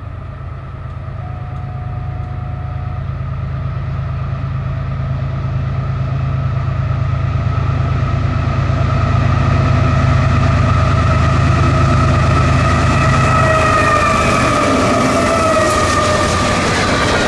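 Train approaching and passing, growing steadily louder: a low engine rumble under several steady whining tones. The tones drop in pitch about fourteen seconds in as the locomotive goes by, and rougher rail noise follows.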